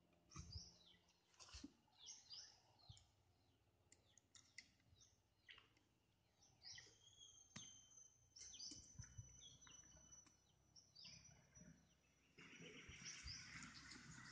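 Faint birds chirping over and over in short, falling calls, with a few light clicks. A steady hiss comes in near the end.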